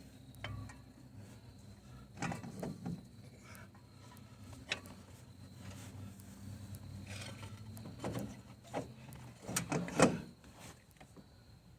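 Scattered knocks and clatter of tools and parts being handled during work on the engine, the loudest a sharp knock about ten seconds in, over a low steady hum.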